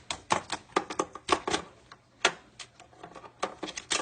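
A pet bird's beak pecking and gnawing at something hard, likely the cord it has been at: an irregular run of quick, sharp clicks and taps, several a second, with a short pause in the middle.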